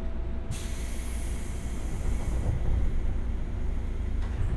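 JR West 201 series electric commuter train with a steady low rumble. A sudden loud hiss starts about half a second in and drops back after about two seconds.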